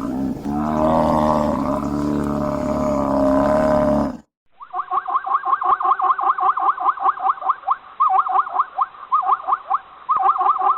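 Two different wild animal calls, one straight after the other. First a loud, drawn-out call with many overtones that stops abruptly about four seconds in. Then, after a brief silence, a fast run of repeated yelping notes, several a second.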